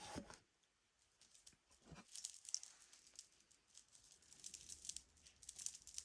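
Faint rustling and light clicking of costume jewelry being handled, a few scattered clicks and crinkles with near-silent gaps between them.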